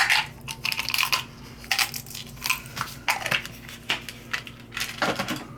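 Irregular clinks and scrapes of small metal tools and parts being handled and worked, in a quick series of short bursts.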